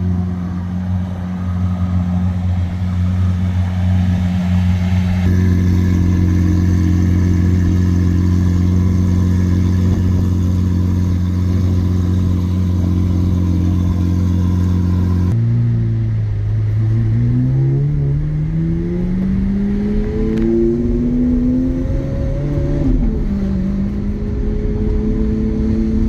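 2017 Lamborghini Aventador SV's V12 with a Gintani F1 exhaust, running at a steady engine speed for about fifteen seconds. Then it accelerates, its pitch climbing for several seconds before dropping sharply at an upshift near the end and pulling on again.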